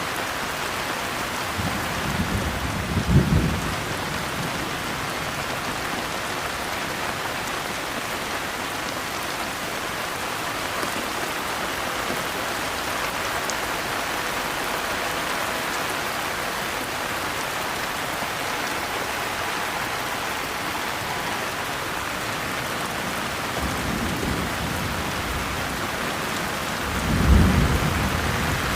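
Steady rain falling, with low rumbles of thunder twice, a few seconds in and again near the end.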